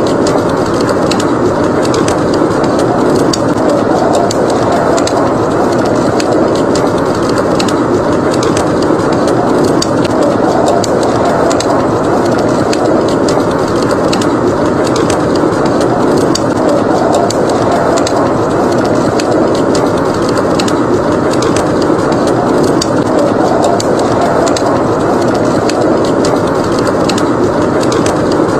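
Wood fire crackling in a fireplace, with many small sharp pops, over a steady rushing blizzard wind.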